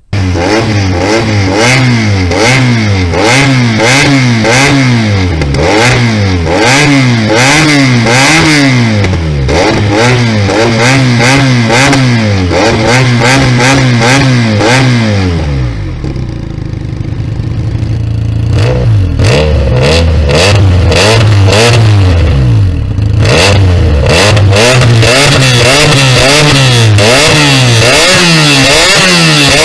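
Benelli TNT300 parallel-twin motorcycle engine with a loud aftermarket exhaust, revved again and again in quick throttle blips. It settles to a lower idle about halfway through, then revs repeatedly again, with sharp crackles among the revs.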